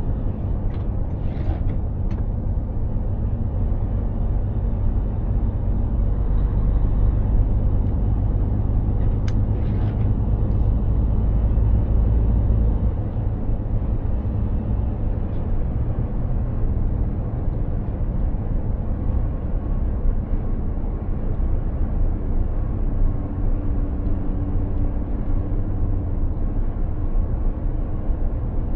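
Mercedes-Benz Actros 2763 truck on the move: steady low engine and road rumble. The rumble grows heavier from about four seconds in and eases off again about thirteen seconds in.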